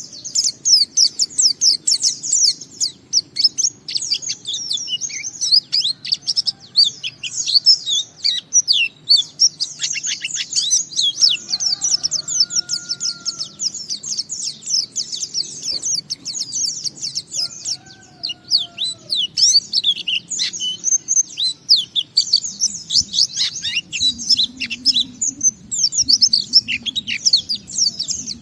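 White-eye (pleci) singing a long, unbroken run of rapid, high-pitched chirping twitters: the continuous 'ngalas' song that keepers play to set other pleci singing.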